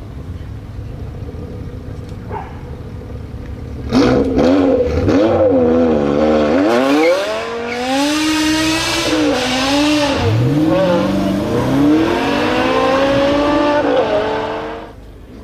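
BMW M6's V10 engine with a KKS exhaust idling, then about four seconds in suddenly getting loud as it accelerates hard, the engine pitch climbing, dropping at a shift and climbing again. The sound falls away sharply near the end.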